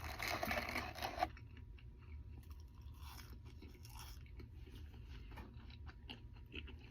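A person chewing a mouthful of food close to the microphone: dense crackly mouth sounds for about the first second, then softer, scattered smacks and clicks.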